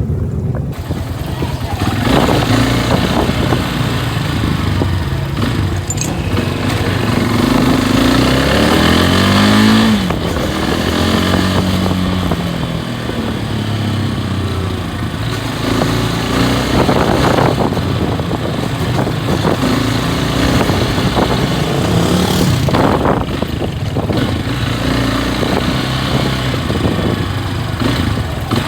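Loncin SX2 250 motorcycle engine running under way, its pitch rising and falling as it accelerates and changes gear; the clearest climb comes about eight to ten seconds in, then drops suddenly.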